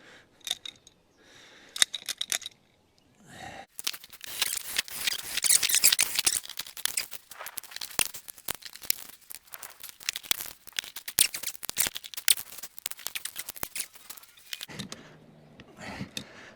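Hand-tool work on repair material: a dense run of scraping and crackling full of sharp clicks, with a few scattered clicks before it.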